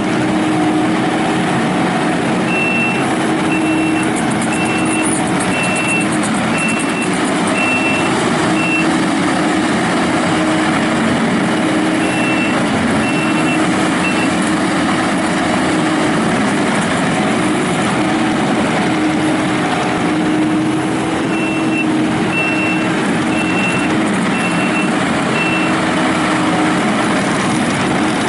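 Kubota SVL95-2S rubber-track skid steer running with its diesel engine at working speed. Its back-up alarm beeps about three times every two seconds, in three spells: early on, near the middle, and near the end.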